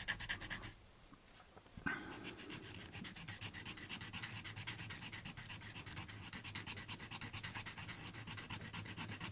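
Sandpaper rubbed back and forth in rapid short strokes on a styrene plastic model part, sanding down the sprue nub on an alignment pin. The rubbing stops for about a second, a light click comes about two seconds in, and then the strokes run on steadily.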